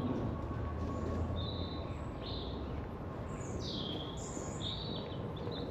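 Small birds chirping: a run of short, high calls, one sliding downward in pitch, over a steady low rumble.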